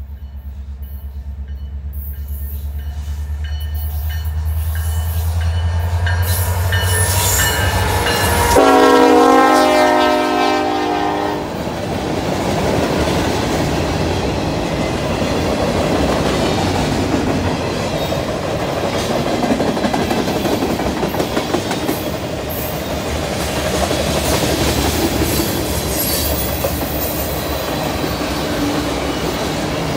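Diesel locomotives of a freight train approaching, their engine drone growing louder, then one horn blast of about three seconds as they pass. After it the freight cars roll by steadily, their wheels clacking over the rails.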